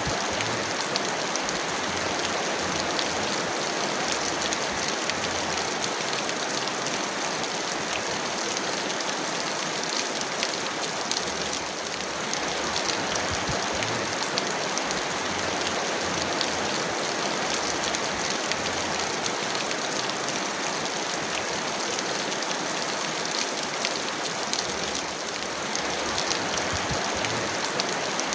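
Heavy rain falling steadily: a dense, even hiss sprinkled with the sharp ticks of individual drops striking.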